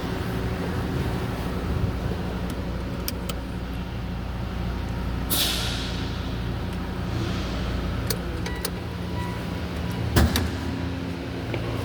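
Mitsubishi 4A92 1.6-litre engine idling steadily. There is a short hiss about five seconds in and a sharp knock about ten seconds in.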